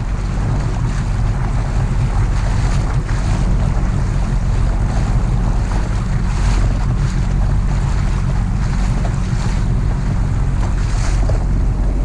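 Jet ski engine running steadily under way, with wind buffeting the microphone and water rushing past the hull.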